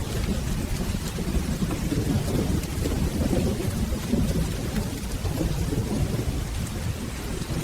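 Steady rain falling, under a continuous low rumble of rolling thunder.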